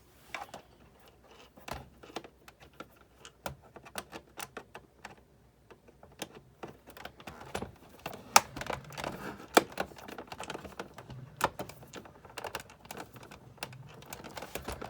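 Irregular clicks, taps and light knocks of hand tools and plastic and metal parts during the disassembly of a Sizzix Big Shot manual die-cutting machine. The loudest knocks come a little past the middle.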